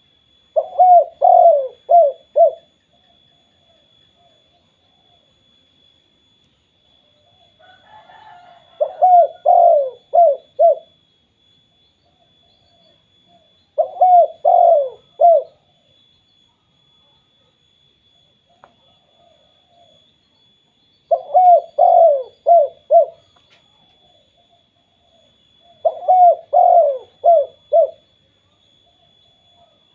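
Spotted dove cooing: five phrases of four or five short, falling coo notes, each phrase about two seconds long and separated by pauses of several seconds.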